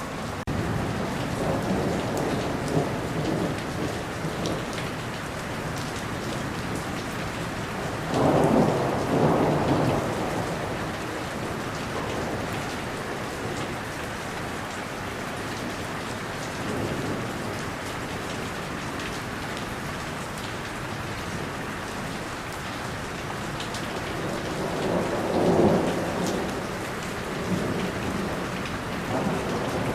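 Steady rain with rolling thunder. The thunder swells and fades several times, loudest about a third of the way in and again past the three-quarter mark.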